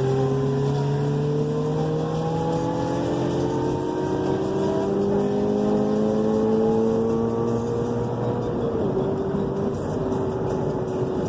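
Car engine accelerating, its pitch climbing steadily for about eight seconds; near the end the revs drop sharply and the engine carries on at a lower, steady pitch.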